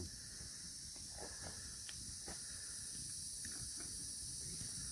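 A steady, high-pitched insect chorus with a low rumble underneath, and a few faint clicks and pops from the campfire, most of them around the middle.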